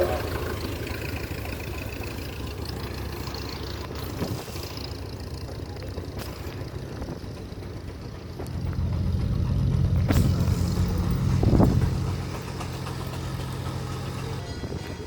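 Tractor engine running, with a low hum that grows louder about eight seconds in and eases off again about four seconds later. There are a few sharp knocks along the way.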